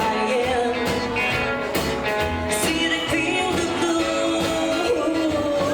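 Rockabilly band playing live, with a held, wavering sung vocal line over a steady beat.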